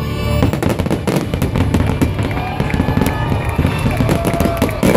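Fireworks show finale: a dense, unbroken run of quick bangs and crackles from bursting shells and rising fountains, with the show's music playing underneath.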